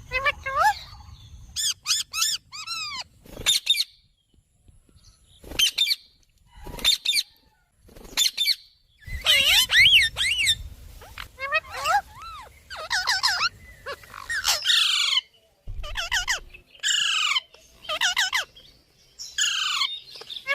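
Lovebirds calling: a string of short, sharp chirps and squawks in quick clusters, some sweeping down in pitch, with brief pauses between bursts.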